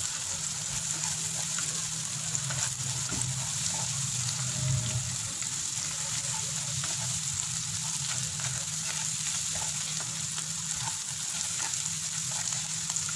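Julienned vegetables and beaten egg sizzling steadily in hot oil in a non-stick kadai on high heat. A wooden spatula stirs and scrapes through them with light clicks against the pan.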